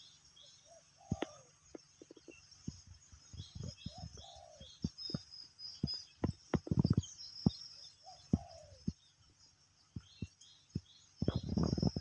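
Birds calling across open fields: a short, low, falling call repeated every few seconds and quick high chirps in runs of three or four, over a steady high-pitched drone. Irregular low thumps come through, loudest about halfway through and near the end.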